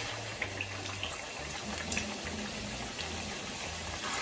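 Raw minced-mutton kebab patties shallow-frying in hot oil in a frying pan: a steady sizzling hiss with scattered small pops and crackles as the patties go into the oil.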